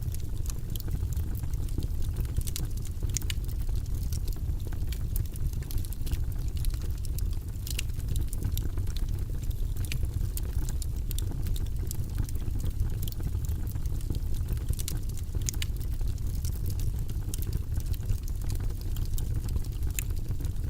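Wood fire crackling in a fireplace: frequent sharp, irregular snaps and pops over a steady low rumble.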